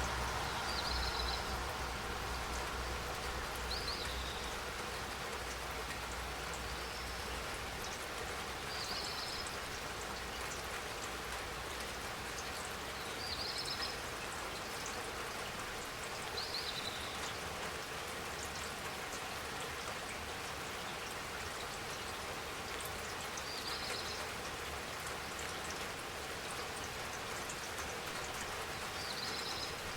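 Steady spring rain falling, with a short high chirp repeating every few seconds, about eight times.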